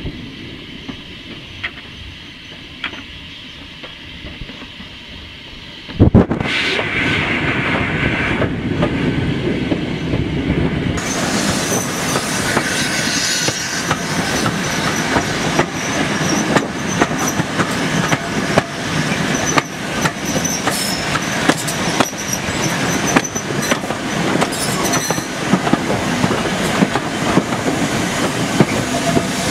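Heritage railway passenger carriage running along the track: wheels rumbling with an irregular clickety-clack over the rail joints. About six seconds in, after a sharp knock, it becomes suddenly much louder.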